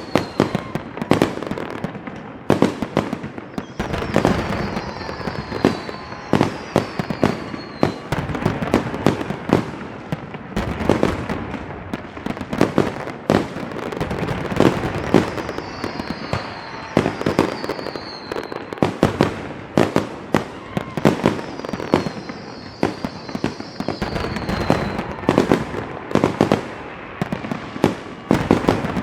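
Fireworks going off in quick, irregular succession: a dense run of bangs and crackling, with short high whistles that fall in pitch recurring several times.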